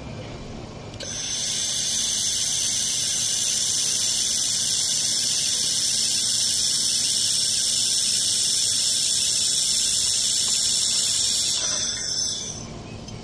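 Laser welding machine running a weld on metal square tube, giving a steady high-pitched hiss that starts about a second in and stops shortly before the end.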